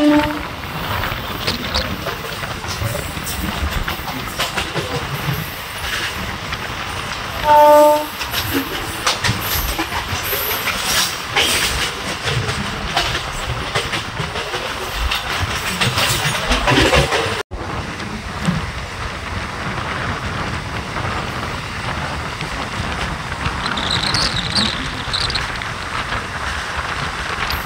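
MEMU electric multiple-unit train running along the line: a steady rumble with the clickety-clack of wheels over rail joints. About eight seconds in, a train horn sounds in one short blast.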